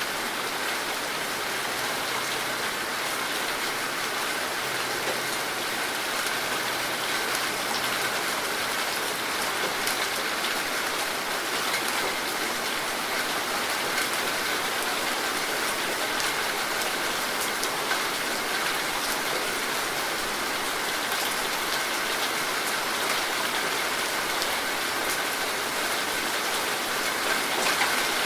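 Rain falling steadily: an even, unbroken hiss of drops on surfaces.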